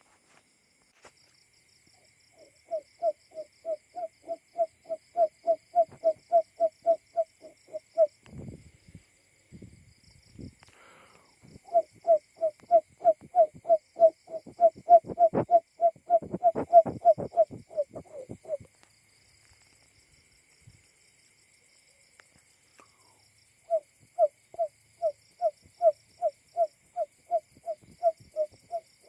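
Buttonquail call, simulated male: three bouts of evenly spaced low hoots, about two or three a second. There are a few low thumps between the first two bouts.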